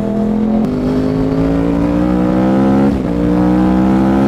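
Yamaha R1's crossplane inline-four through a Toce full-system exhaust, loud, pulling under acceleration. The pitch climbs steadily, drops sharply about half a second in and again about three seconds in as the rider shifts up, then climbs again.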